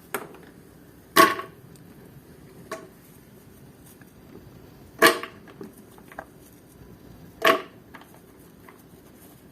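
Three sharp clacks from handling an Oster blender's jar and tightly sealing lid, about a second in, near the middle and again two and a half seconds later, with a few fainter taps between; the blender motor is not running.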